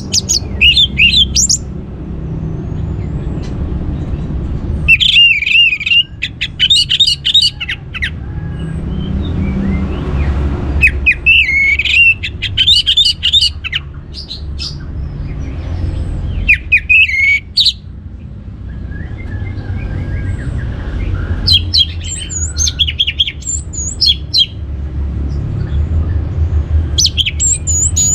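Orange-headed thrush singing: short, quick, high phrases of varied whistled notes, one every few seconds with pauses between. A steady low rumble runs underneath.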